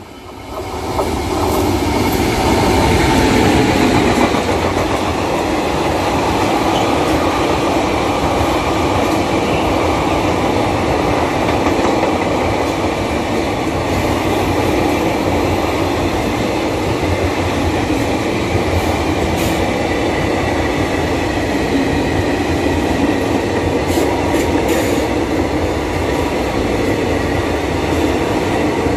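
A passenger express train running through the station at speed without stopping. The noise of the locomotive rises over the first two seconds as it reaches the camera, then holds steady as the coaches' wheels run past on the rails.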